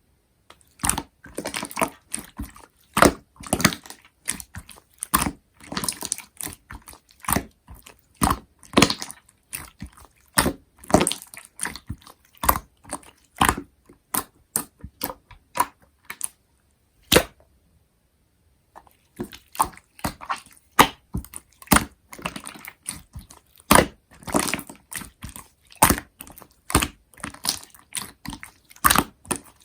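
Slime being squeezed and pressed by hand, making irregular sharp wet clicks and pops with softer crackle between them. There is a brief pause just past the middle.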